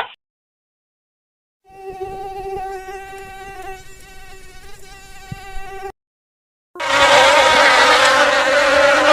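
Insect buzzing: a steady, slightly wavering hum for about four seconds, then, after a short gap, a much louder and harsher buzz lasting nearly three seconds.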